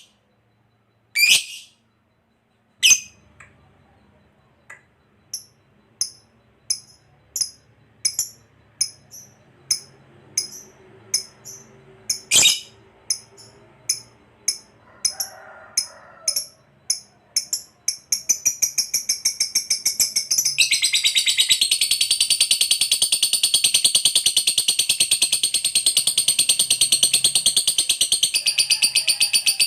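Lovebird calling: a few loud shrill calls and a run of short high chirps about two a second, then, about two-thirds of the way in, a long fast continuous chatter. This is the long 'ngekek' trill.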